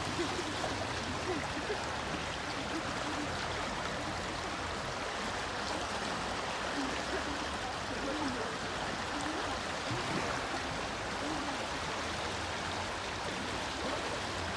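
Small river running high in the spring flood: a steady rush of water.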